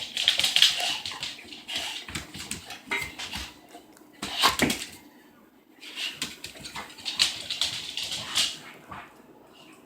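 A dog making a run of short, scratchy, noisy sounds with a few sharp clicks, in spells broken by brief pauses.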